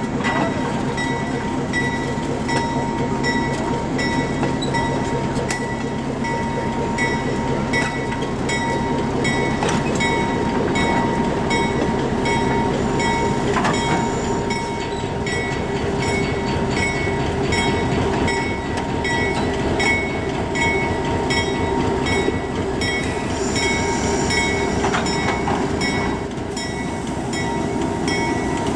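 Diesel train running on the rails, with a regular ticking from the wheels and track.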